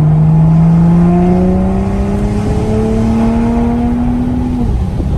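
Toyota Supra A90's engine through a Tomei dual titanium exhaust, pulling under acceleration with its note rising steadily. About four and a half seconds in, the rising note breaks off, as at a gear shift or a lift off the throttle.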